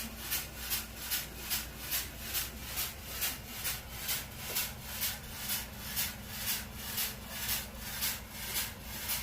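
A machine running: a hiss that pulses evenly about two to three times a second over a steady low hum.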